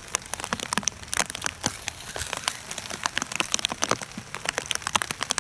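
Heavy rain, with many individual drops landing close by as quick, irregular ticks.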